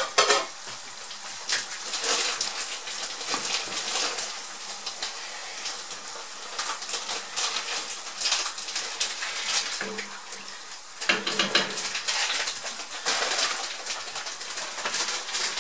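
Tomato sofrito frying in a non-stick pan on a gas burner, sizzling in uneven bursts as a silicone spatula stirs and scrapes it.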